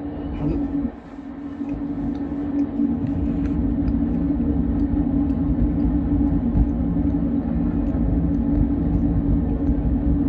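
Freight train rolling past, a steady rumble with a steady low hum that builds over the first couple of seconds and then holds level.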